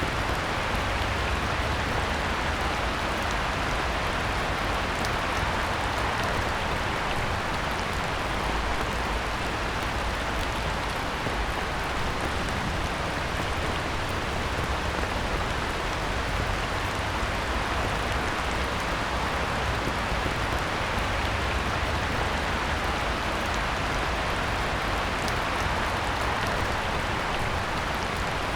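Heavy rain falling steadily on a pond: an even, unbroken hiss of drops on the water.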